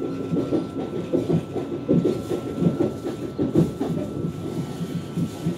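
Interior noise of a Lastochka (Siemens Desiro RUS) electric multiple-unit train running at speed: a steady rumble of wheels on rails with many irregular knocks, and a thin steady whine throughout.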